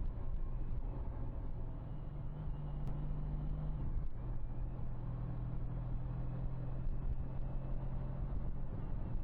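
Can-Am Ryker three-wheeler's engine running steadily on the road, under a rush of wind noise. About four seconds in, the engine note dips briefly and then settles a little lower.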